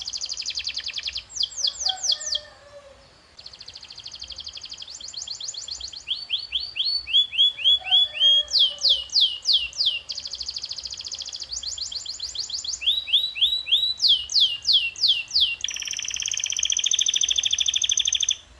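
Domestic canary singing a long song of repeated phrases: runs of quick falling whistled notes alternating with fast even trills. Near the end it switches to a buzzy rolling trill that cuts off suddenly.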